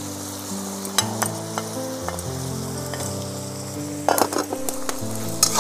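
Chicken and onions sizzling in a hot metal wok, a steady frying hiss. About four seconds in, a metal ladle starts knocking and scraping against the wok as the turmeric is stirred in.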